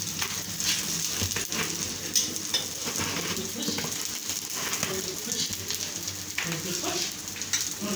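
Egg-coated potato patties (aloo tikki) sizzling on a hot tawa, a steady frying hiss. Steel tongs click against the pan now and then as the patties are turned.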